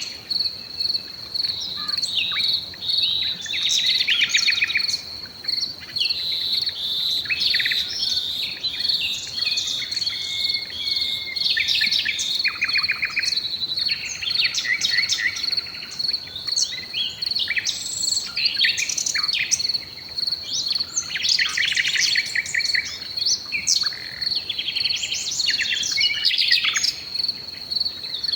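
Several songbirds singing in quick trills and chirps, one phrase after another, over an unbroken high-pitched insect trill.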